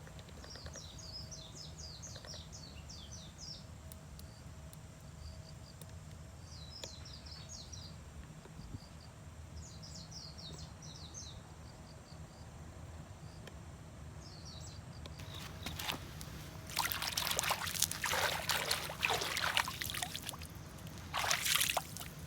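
Birds singing in short, repeated chirping phrases over a steady low hum, then near the end liquid is poured in two spells, the louder sound, as when hot water is poured for coffee.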